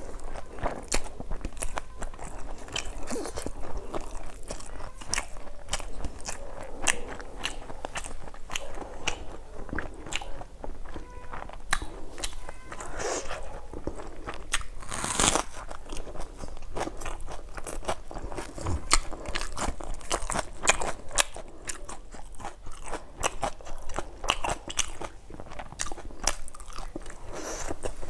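Close-miked mouth sounds of eating by hand: a steady run of crisp crunching and wet chewing. One much louder crunch comes about halfway through, a bite of raw red onion.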